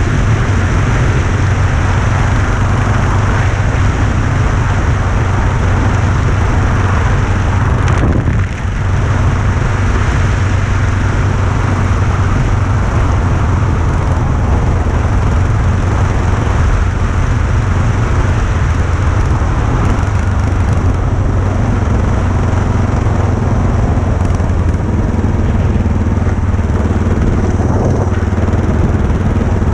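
Motorcycle engine running steadily, with rushing noise over it and a brief dip in level about eight seconds in.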